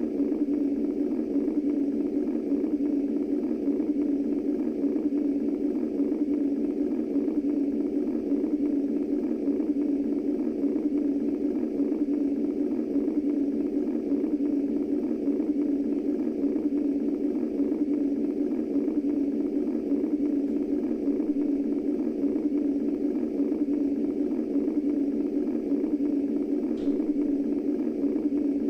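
Womb-style white noise for soothing a baby: a steady, muffled low rush of filtered noise that does not change.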